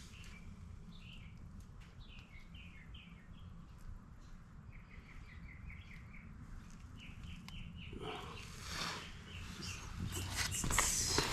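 Small birds chirping in quick runs of short repeated notes over a low steady rumble. From about eight seconds in, louder rustling with sharp clicks, like parts being handled.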